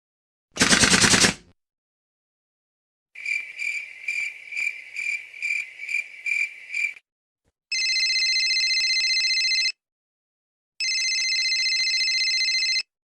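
Three sound-effect clips in a row. First a machine gun fires a short rapid burst. Then crickets chirp about twice a second for several seconds, and last a telephone rings twice, each ring about two seconds long.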